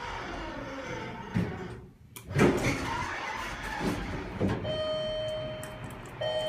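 Elevator car doors sliding, with several knocks and clunks and a steady tone coming in about four and a half seconds in. Meanwhile the door close button, which is broken, does nothing.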